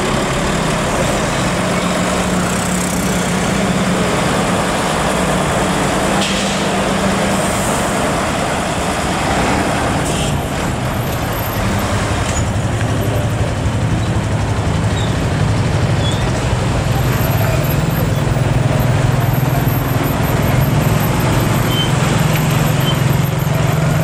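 Heavy truck's diesel engine running amid road traffic noise, a steady low hum that grows somewhat louder in the last third.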